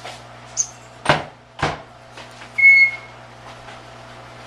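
A brief high chirp, then two sharp knocks about half a second apart, then a single steady beep lasting about half a second, the loudest sound. A low, steady hum runs underneath.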